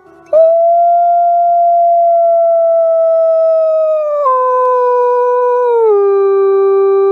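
A canine giving one long howl that holds a steady pitch, then drops lower in two steps, about four and six seconds in.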